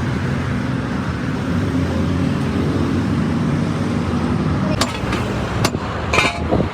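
Vehicle engine running steadily in road traffic, then a few sharp knocks in the last second and a half or so.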